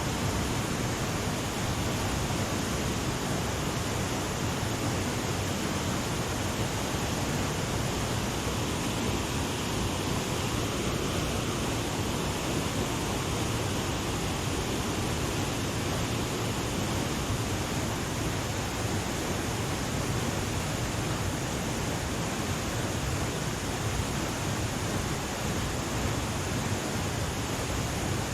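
Fast-flowing river water rushing steadily, a constant even roar with no breaks.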